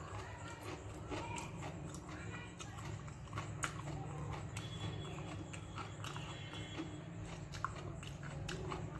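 Close-miked eating sounds: chewing and wet mouth clicks from eating fermented rice (pazhaya sadam) with okra stir-fry, with a couple of sharper clicks, over a steady low hum.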